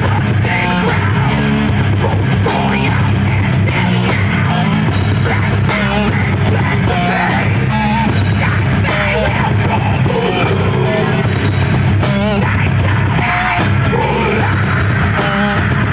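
Heavy metal band playing live: loud, steady distorted electric guitars over bass and drums.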